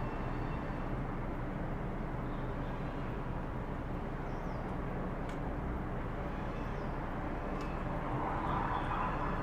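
Steady outdoor rumble of road traffic, with a vehicle passing and swelling louder near the end; no clear barking is heard.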